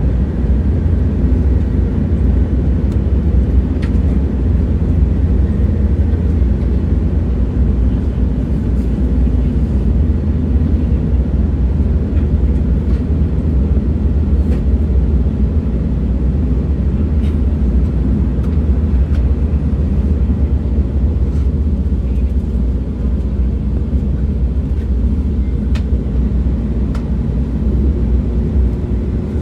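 Train running: a steady low rumble with a few faint clicks scattered through it, and a faint steady hum coming in near the end.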